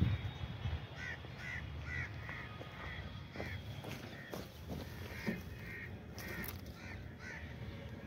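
A bird calling in two runs of short, arching notes, about two a second, with a pause in the middle. A few soft knocks and crunches of footsteps on stony ground come under it.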